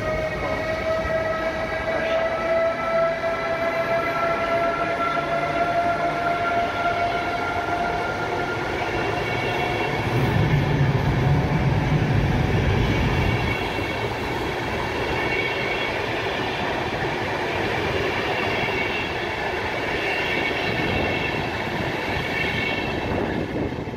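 Electric train running through the station, its motor whine slowly rising in pitch as it gathers speed, over the rumble of wheels on the track. The sound drops away suddenly at the end.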